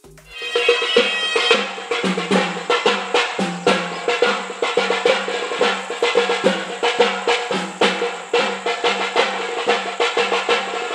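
Traditional drumming with a reedy wind instrument playing over it: quick, steady drum strokes under a sustained, shrill pipe melody, starting in just after a sudden break.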